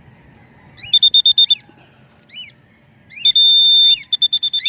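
A loud, high, steady-pitched beeping tone: a quick run of short pips, about six a second, then one held note of about half a second, then more quick pips. Faint short chirps from small birds come in between.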